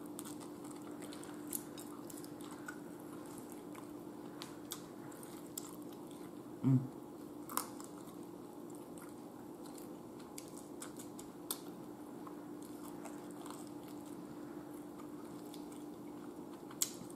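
A person chewing and biting the meat off a fried chicken wing, with scattered small clicks of mouth and fingers on the bone. A faint steady hum runs underneath, and a short hum of the voice comes about halfway.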